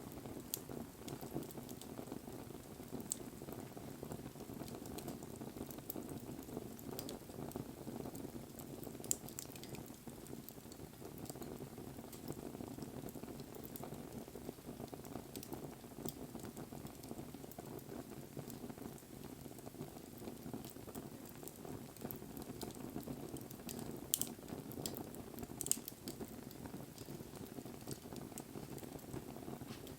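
Wood fire burning: a steady rush of flames with scattered crackles and a few sharp pops.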